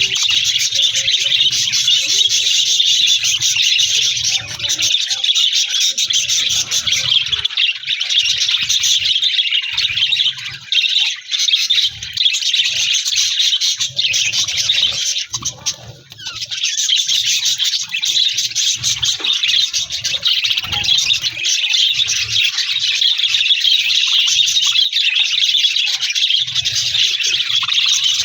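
A flock of budgerigars chattering and warbling in a dense, continuous stream of chirps, briefly easing off about two-thirds of the way through. Faint low knocks sound now and then underneath.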